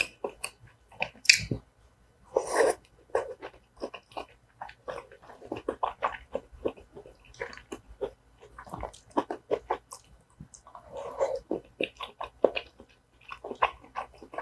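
A person chewing a mouthful of tteokbokki rice cakes and vegetables: an irregular run of short mouth clicks and smacks, the eating sounds of a mukbang.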